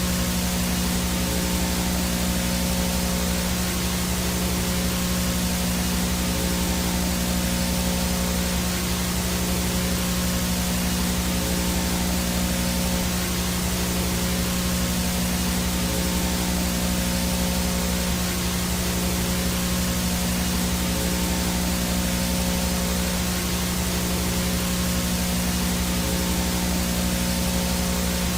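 VHS static, the no-signal noise of a blank tape or untuned analog set: a steady hiss spread across the whole range over a constant low buzz of hum tones, unchanging throughout.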